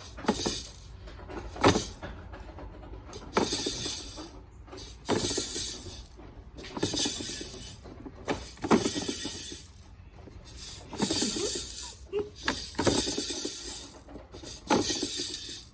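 Fisher-Price Laugh & Learn Crawl Around Car play center being handled, giving short bursts of clattering and rattling about every second and a half, with sharp clicks among them.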